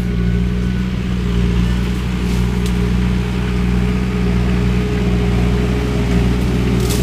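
Skid steer with a shredder head running steadily: a constant engine drone with a steady higher hum over it.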